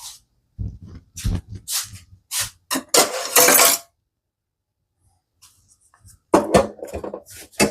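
Dishes and containers being moved about on a kitchen counter: a series of knocks and clinks, with a longer rustling scrape about three seconds in, a short pause, then more knocks near the end.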